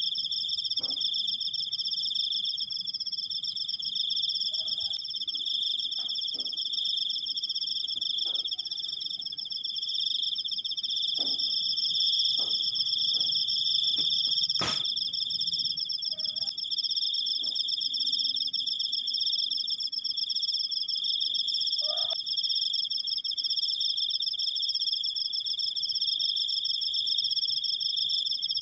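Crickets trilling in one long, unbroken high-pitched trill at two steady pitches at once. Faint short background noises come now and then, and there is one sharp click about fifteen seconds in.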